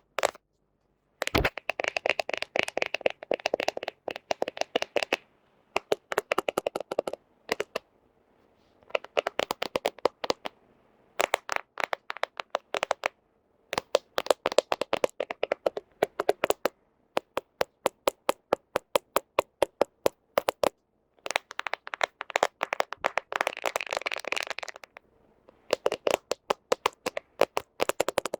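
Fingernails tapping and scratching on a smartphone's camera and screen, in quick runs of sharp clicks with brief pauses between them. Some runs are dense scratching; others are evenly spaced taps, about four or five a second.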